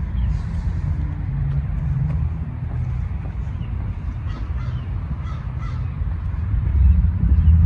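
Crows cawing faintly over a steady low rumble that swells near the end.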